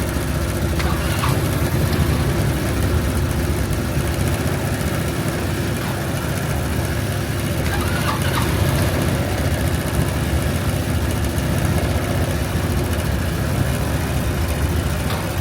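Honda Helix scooter's 250 cc single-cylinder engine idling steadily just after a cold start at 1°F, at a low idle setting.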